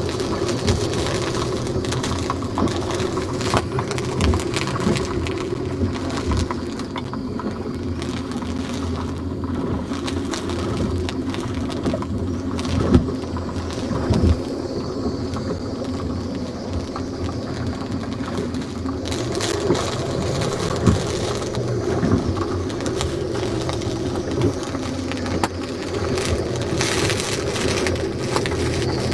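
Steady storm wind with many short knocks and rattles throughout.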